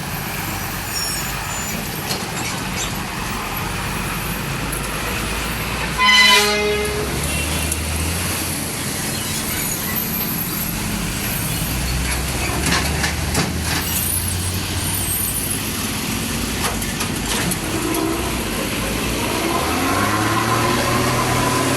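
A horn sounds once for about a second over a steady low engine rumble. Near the end an engine note rises.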